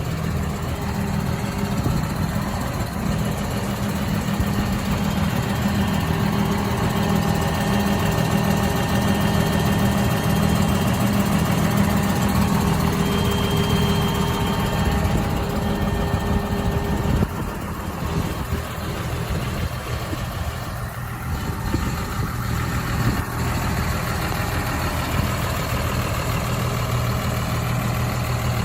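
2013 CLAAS Arion 630 tractor's six-cylinder diesel engine running at a steady idle, its note shifting a little past halfway.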